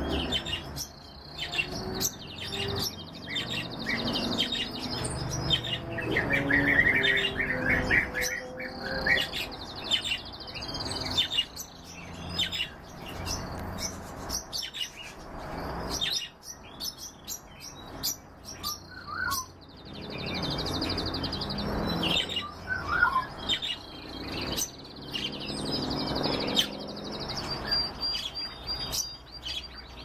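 Several birds singing and chirping together, with a long high trill that recurs every several seconds.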